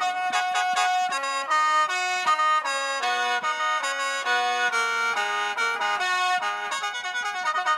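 Instrumental interlude of Isan mor lam music: a reedy free-reed melody, in the manner of a khaen mouth organ, plays a quick line of stepping sustained notes between sung verses.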